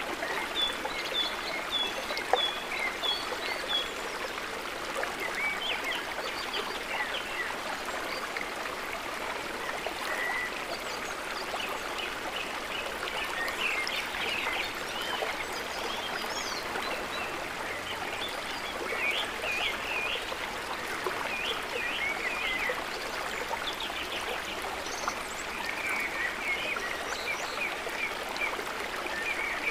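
Steady gentle trickling of water with birds calling over it. A series of short high notes comes about twice a second in the first few seconds, then chirping on and off.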